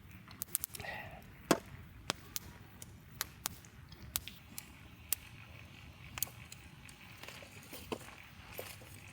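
Campfire crackling: irregular sharp pops and snaps of burning wood, the loudest about a second and a half in.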